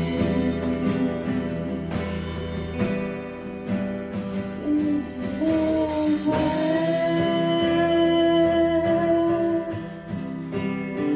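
Worship song played by a band with guitar accompaniment, with long sustained notes held between the sung lines.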